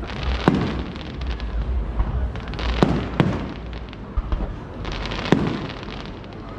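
Fireworks display: shells bursting with four sharp bangs at irregular intervals, over continuous crackling and a low rumble.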